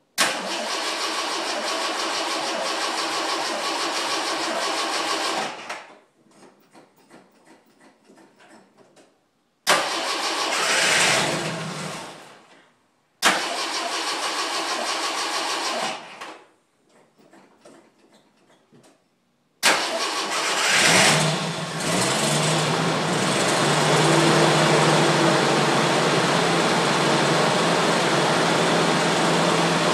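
A 1980 Jeep CJ5's engine being cold-started after sub-zero nights: the starter cranks in four separate tries with pauses between them, the second briefly firing and fading out. On the fourth try, about twenty seconds in, the engine catches, revs up, and settles into steady running.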